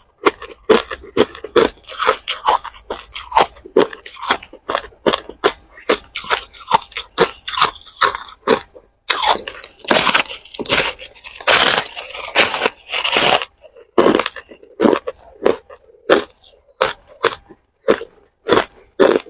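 Hard ice cubes being bitten and chewed close to the microphone: rapid sharp crunches and cracks, two to three a second, louder and denser about halfway through.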